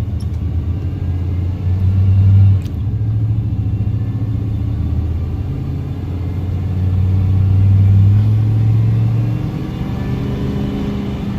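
Car engine and road noise heard from inside the cabin while driving: a low steady drone that swells and eases, loudest about two seconds in and again near eight seconds.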